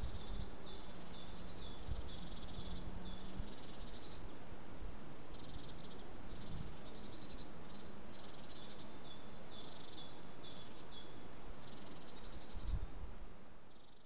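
Small birds calling in short high trills that repeat about once a second over a steady hiss, with a low hum through the first few seconds. The sound fades out at the end.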